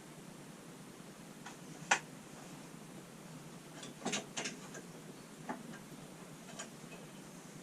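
Scattered sharp metallic clicks and taps of hand tools and fasteners being worked on a lawnmower's panel: a loud single click about two seconds in, a quick run of three around four seconds, then a couple of lighter ones.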